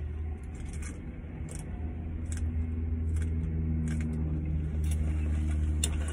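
Car engine idling, heard from inside the cabin: a steady low hum that grows louder from about two seconds in, with a few faint sips through a drinking straw.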